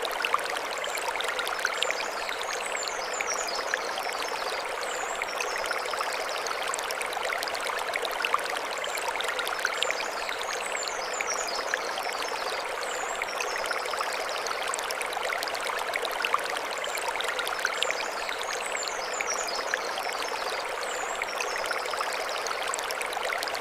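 Mountain stream running steadily over stones, a constant splashing rush full of small droplet clicks. A short, high twittering phrase, like a small bird, comes three times, about eight seconds apart.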